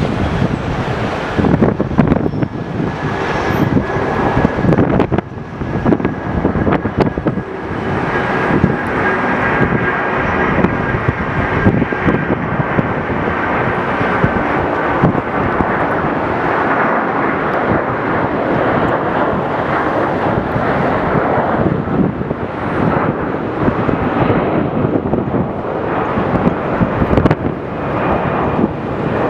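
Jet airliner engines running, with a faint steady whine through the first half, mixed with heavy gusty wind buffeting the microphone.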